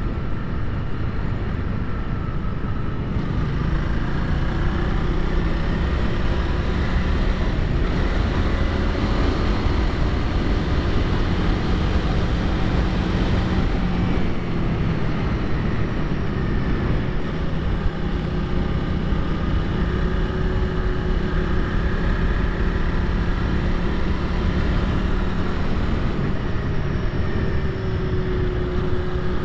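Honda Rebel 300's single-cylinder engine running under way through a series of curves, its pitch drifting up and down with the throttle, under a steady rush of wind on the microphone.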